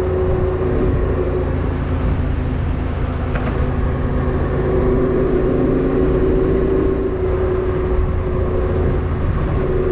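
Motorcycle engine running steadily at road speed, with wind and road noise over a low rumble.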